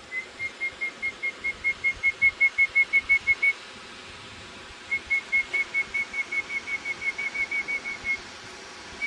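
A bird calling in two runs of short, clear whistled notes on one pitch, about six notes a second. Each run lasts about three seconds, with a pause of about a second and a half between them.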